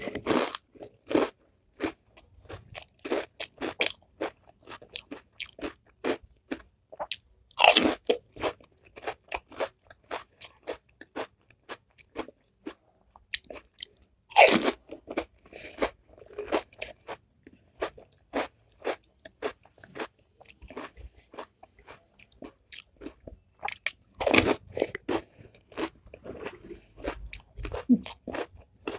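Crisp panipuri shells crunching as they are bitten whole, then close-miked chewing full of small crackles. A loud crunch comes about every seven to ten seconds: four bites in all.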